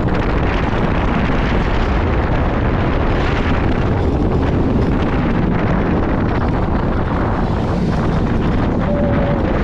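Steady, loud rush of wind buffeting the microphone as the dive coaster's train runs through its course at speed.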